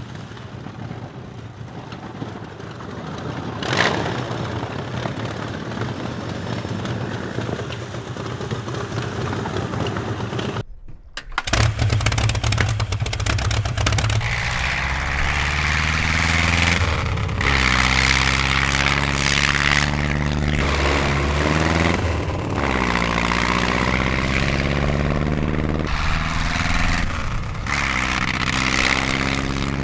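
The Delahaye 107's 6.2-litre four-cylinder engine starts about eleven seconds in and runs loud and deep, revved down and up several times. Before it starts there is lower rough noise with one sharp clack.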